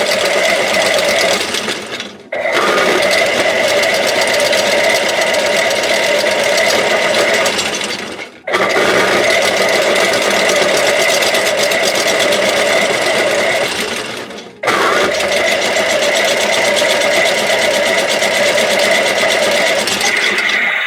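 Toy washing machine's electronic wash-cycle sound effect playing through its small speaker: a loud, buzzing machine noise that loops, with three brief drop-outs about six seconds apart.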